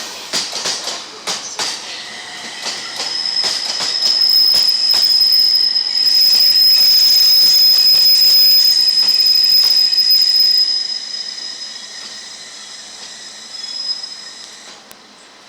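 A train's wheels passing: a run of sharp clicks at first, then a high, steady wheel squeal that swells to its loudest in the middle and fades away near the end.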